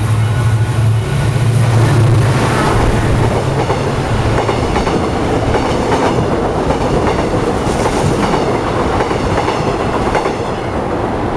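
Yangon Circle Line passenger train passing close by. A low engine drone sounds for the first couple of seconds, then the carriages rattle past with wheels clacking over the rail joints.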